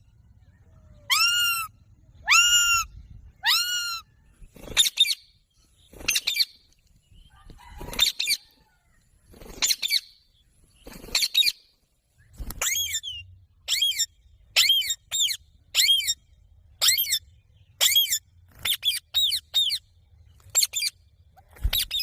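Indian ringneck parrot calling over and over: short, shrill calls, about one a second at first, then coming faster and higher-pitched in the second half.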